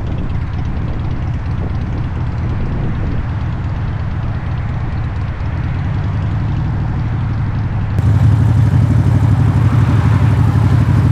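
Motorcycle engine running on the road with wind rush; about eight seconds in it cuts to a louder, steadier engine beat.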